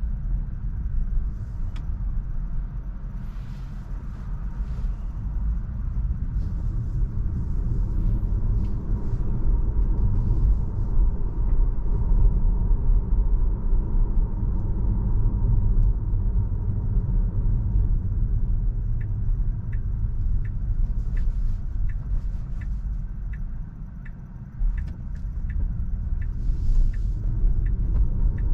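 Road and tyre rumble of a Tesla driving on city streets, heard from inside the car; it eases briefly near the end and then builds again. From about two-thirds of the way in, a turn-signal indicator ticks steadily about twice a second.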